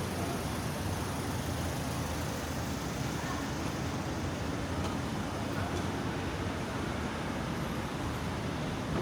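Steady ambient noise with a continuous low rumble, typical of traffic or large-building ventilation, with faint voices underneath.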